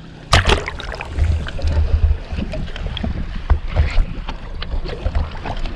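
Handling noise on a small boat on the water: a sudden loud rush about a third of a second in, then a low rumble with scattered clicks and knocks.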